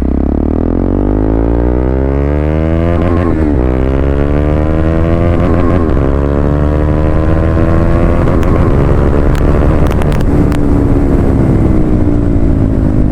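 KTM Duke 390 single-cylinder engine through a loud aftermarket exhaust, accelerating hard with pitch climbing, snapping through two quick-shifter upshifts about three and six seconds in, then holding a steady, slightly easing pull.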